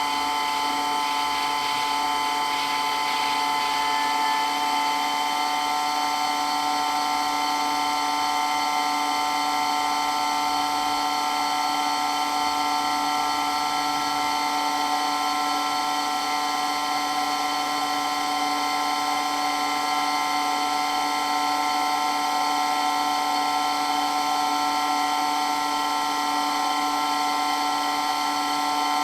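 Water pump running steadily with a constant whine that neither rises nor falls.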